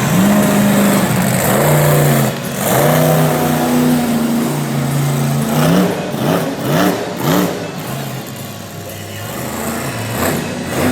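Monster truck engine revving hard, its pitch rising and falling over and over, with a run of quick rev blips about six to seven and a half seconds in.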